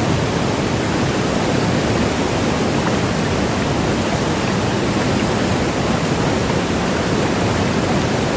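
Niagara Falls: the steady, deep rush of a great mass of falling water, an even, unbroken noise.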